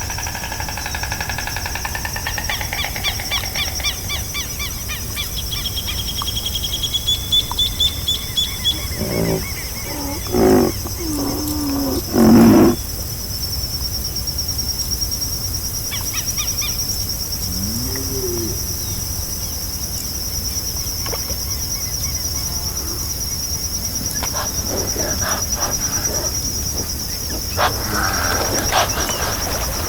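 Tropical forest ambience: a steady, pulsing high insect drone, with birds calling in rising notes during the first several seconds. Two short, loud, low animal calls come about ten and twelve seconds in, and fainter calls are scattered through the rest.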